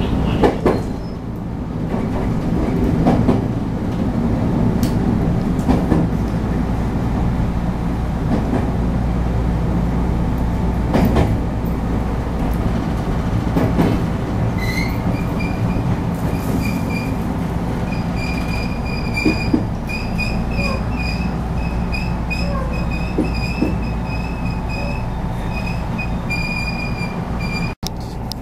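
Running noise of a JR West 221 series electric train, heard from inside the car, with scattered clicks from the wheels over rail joints. About halfway in, a high-pitched wheel squeal starts and wavers on and off until near the end. The sound cuts out for an instant just before the end.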